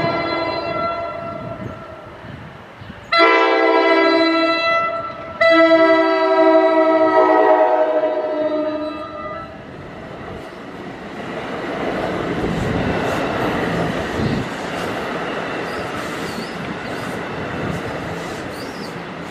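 NJ Transit train's multi-note air horn sounding for the grade crossing: a fading blast at the start, a loud blast about three seconds in, a short break, then a longer blast that ends about nine seconds in. The double-deck coaches then roll past with a steady rush of wheels on rail and scattered clicks over the joints.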